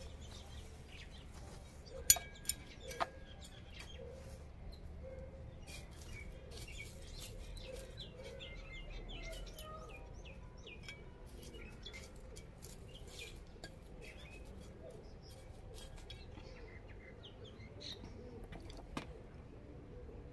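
Birds chirping in the background, with three sharp taps about two to three seconds in and another near the end.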